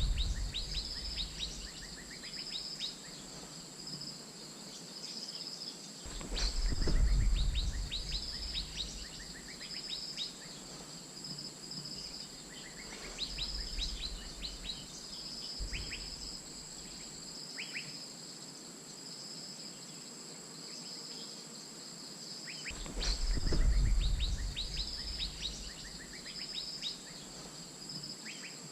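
Asian fairy-bluebird calling: repeated short, sharp whistled notes that drop steeply in pitch. Under it runs a steady high insect drone with a pulsing buzz, and low rumbles come at the start, about seven seconds in and about twenty-four seconds in.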